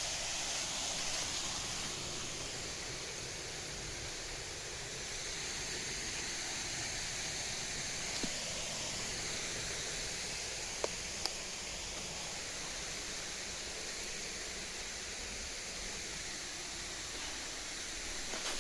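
Steady rushing of flowing water, an even hiss with no changes, with two or three brief sharp ticks a little past halfway.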